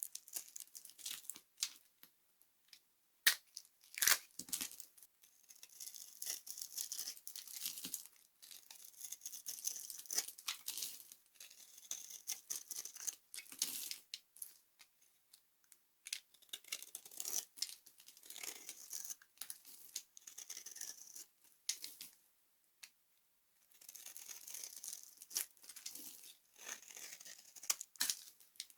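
Dry soap being crushed and crumbled, a dense crisp crackling and crunching that comes in bursts with short pauses, with a couple of sharper snaps about three and four seconds in.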